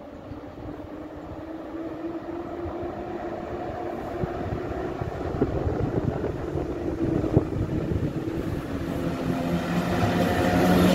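EU07 electric locomotive hauling a passenger train approaches at speed. The rail noise and a droning hum grow steadily louder as it comes up to and reaches the platform near the end.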